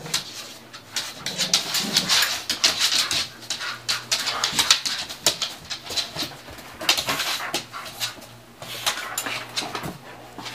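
Two pit bulls play-fighting: scuffling and mouthing with dog whimpers, in two busy stretches with a short lull in between.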